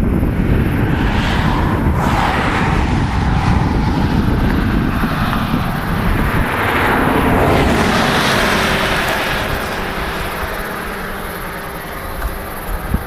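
Storm wind blowing hard in gusts, buffeting the microphone, with a rushing sound that swells and fades several times.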